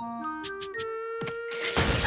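Cartoon music cue: a quick run of notes stepping upward in pitch, then a loud, noisy crash-like hit near the end.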